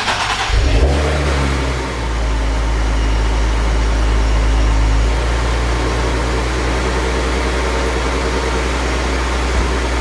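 Nissan 370Z Nismo's 3.7-litre VQ37VHR V6, newly fitted with a Soho air-to-air supercharger kit, firing up on its first start after the install with a brief uneven burst of revs. It then settles into a steady idle that drops a little about five seconds in.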